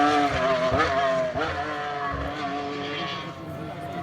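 Hillclimb race car engine running at high revs as the car climbs past. The engine note dips in pitch several times and fades as the car pulls away up the hill.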